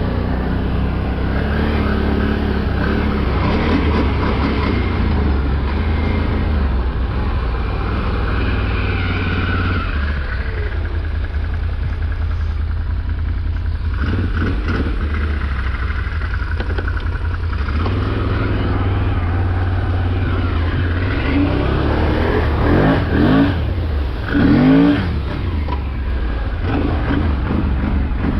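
Motor vehicle engine running steadily, revving up several times about three quarters of the way through.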